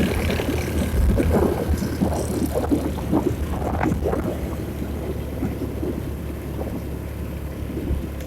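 A vehicle engine running steadily on the move, with wind buffeting the microphone and irregular rattles and knocks that ease off after about the first half.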